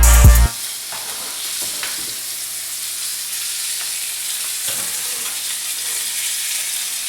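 Floured chicken breast sizzling in a hot skillet: a steady frying hiss with a few faint light taps. Loud background music cuts off about half a second in.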